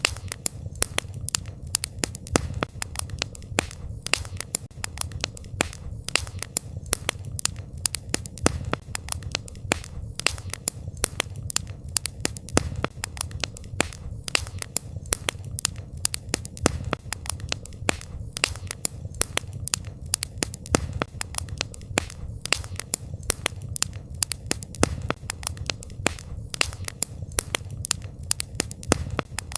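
Campfire crackling: burning wood snapping and popping in quick, irregular clicks, several a second, over a low steady rumble.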